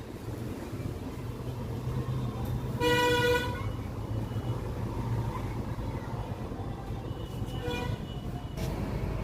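A vehicle horn honks once for about half a second, and a fainter, shorter honk follows near the end, over a steady low engine rumble.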